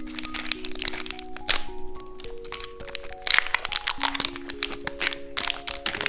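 Crinkling and crackling of chewing-gum packaging being handled and opened, over light background music with a simple melody.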